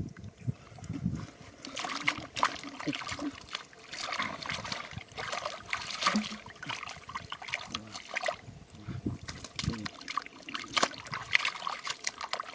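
Shallow water splashing and trickling in irregular bursts, many small splashes close together.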